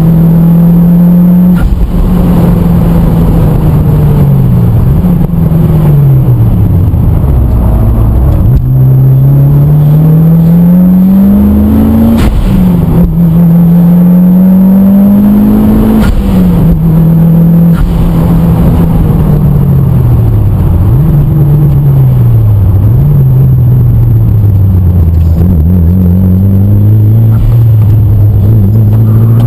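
Mitsubishi Lancer Evolution VIII's turbocharged four-cylinder engine on a circuit lap, heard very loud from inside the car: the revs climb hard through the gears with a sharp drop in pitch at each upshift, then fall away as the car slows, with brief throttle blips on the downshifts, before climbing again near the end.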